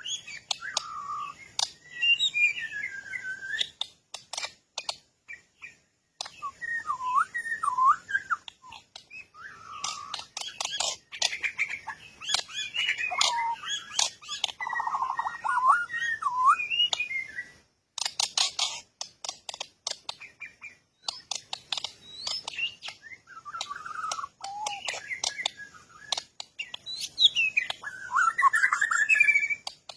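Bird chirping and whistled calls in short gliding phrases that come and go throughout, with many sharp clicks in between.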